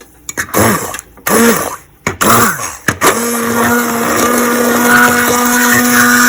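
Hand blender puréeing hot boiled tomatoes, onion and garlic for soup. The motor is pulsed three times in short bursts that spin up and down, then runs steadily from about three seconds in.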